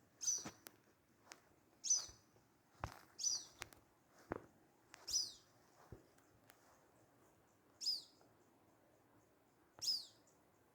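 A songbird calling repeatedly: short, high, downward-sweeping notes every second or two, with a few faint knocks in between.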